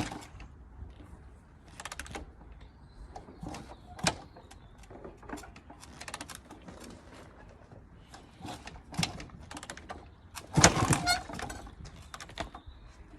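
Scattered clicks and knocks of a motorbike seat and bodywork being handled and fitted, with a louder clatter of several impacts about ten and a half seconds in. The engine is not running.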